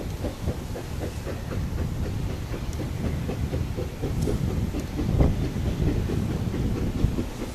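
Narrow-gauge coal train hauled by a C2 steam locomotive going by, with a quick regular beat of about four a second over a low rumble that swells to its loudest about five seconds in.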